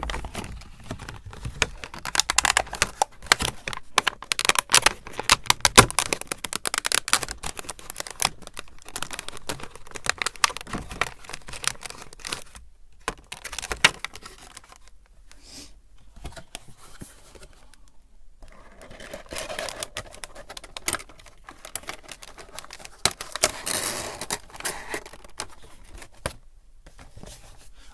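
Crinkling and clicking of a Funko Pop's plastic and cardboard packaging as the figure is worked back into its box: rapid dense crackles in two long busy stretches, broken by a few short pauses.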